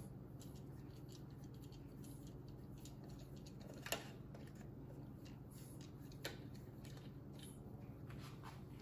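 Faint clicks and taps of hand tools on small metal parts while the ignition points are taken off a Kohler K301 engine, with a sharper click about four seconds in and another a couple of seconds later, over a steady low hum.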